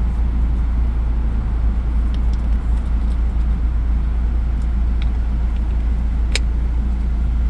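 Car engine idling: a steady low rumble, with a single sharp click about six seconds in.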